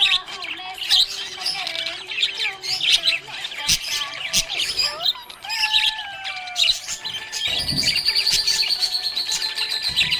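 Several small pet parrots chirping and warbling together, a dense run of quick squeaky calls. Near the end one bird breaks into a fast, even trill.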